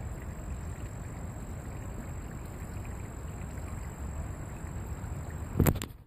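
Steady low rumble of wind buffeting the microphone, with one sharp knock near the end.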